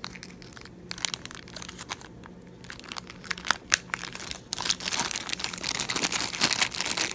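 Light scattered clicks and taps of small precision screwdriver bits and tools being handled, turning into denser rustling and clicking about four and a half seconds in.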